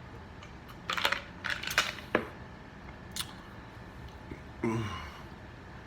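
Ice being crunched and clicked: a cluster of sharp crunching clicks about one to two seconds in and another about three seconds in, followed by a short low vocal sound near five seconds, which ice cold enough to give a brain freeze.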